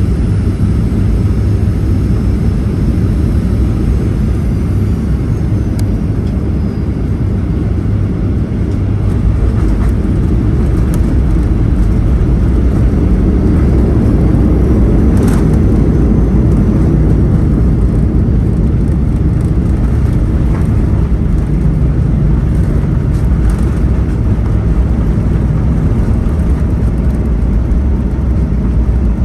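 Cabin noise inside a Boeing 737-800 on the ground: a steady, loud low rumble from the engines and airframe, with a faint whine falling in pitch in the first few seconds.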